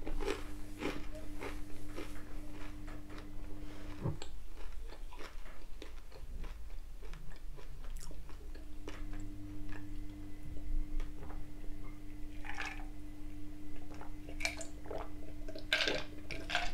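Close-miked chewing and wet mouth sounds of eating battered cod bites and chips, with small clicks and crunches throughout. Near the end there is a drink from a glass of cola with ice.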